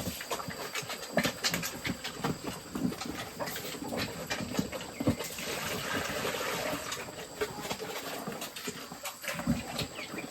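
Piglets feeding, with many irregular short chomps and smacks.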